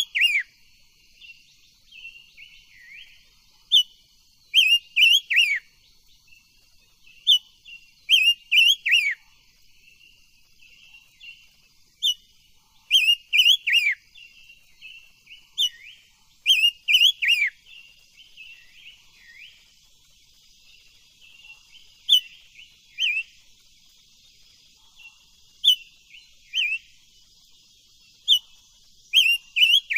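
Silver-eared mesia (chim ngũ sắc) singing: loud phrases of quick whistled notes with sharp downward slurs, repeated every few seconds, over a faint steady high hiss.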